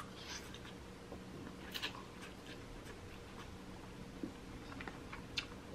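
A man chewing a mouthful of noodles, with scattered faint clicks and ticks of a plastic fork against the plate, over a steady low hum.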